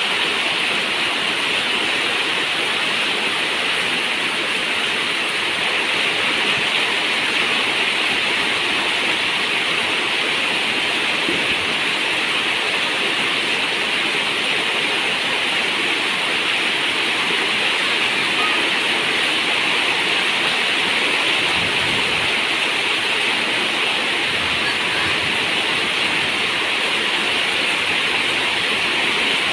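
Heavy rain falling steadily on a zinc roof: a dense, even hiss of water with no single drops standing out.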